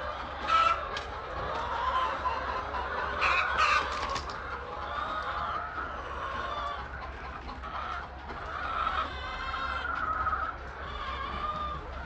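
A flock of chickens clucking and calling over one another, with a few louder, sharper squawks about half a second in and again around three to four seconds in.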